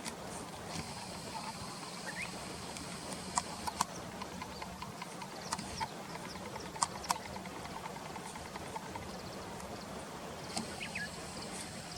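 Wild birds calling outdoors: three pairs of short, sharp call notes a couple of seconds apart in the middle, a couple of brief rising chirps, and thin high notes, over a steady background hiss.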